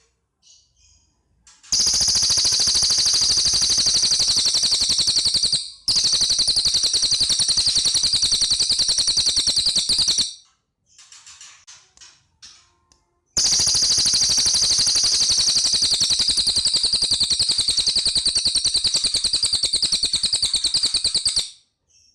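Cililin songbird singing long, very fast, even rattling trills in high-pitched bursts, the machine-gun-like 'nembak' song prized by bird keepers. Two long trills are separated by a few seconds of softer short chirps.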